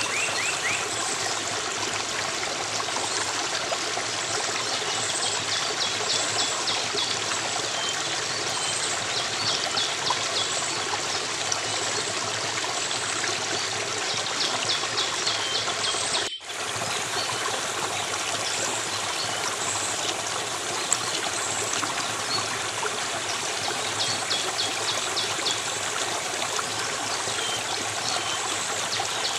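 A flowing stream running steadily, with short, rapid, high chirping trills coming back every few seconds. There is a brief dropout in the sound about 16 seconds in.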